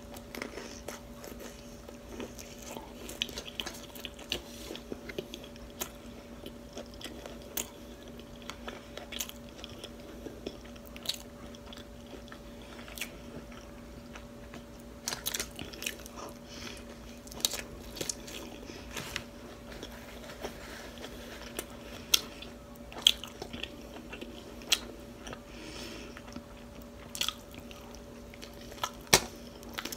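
A person biting and chewing a soft chicken taco with lettuce close to the microphone: irregular short smacks and crunches. A faint steady hum runs underneath.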